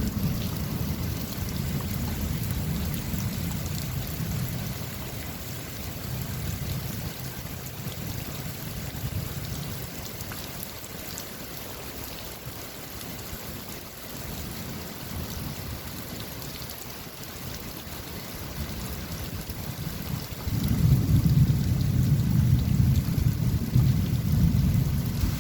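Steady rain with rolling thunder. A low rumble fades away over the first few seconds, and another thunder rumble builds and turns loud near the end.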